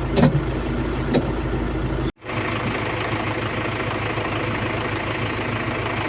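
Tractor's turbocharged Quanchai diesel engine idling steadily, with a couple of short knocks in the first second or so. The sound drops out for an instant about two seconds in, then carries on the same.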